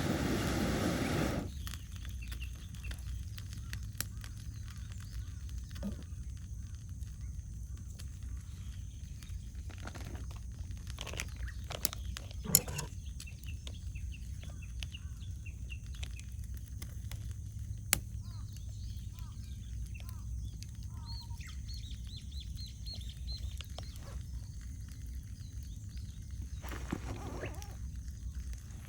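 Wood campfire crackling, with a few sharp pops, the loudest about twelve and a half and eighteen seconds in. Birds chirp faintly, mostly in the second half. A broad noisy rush fills the first second and a half, then cuts off.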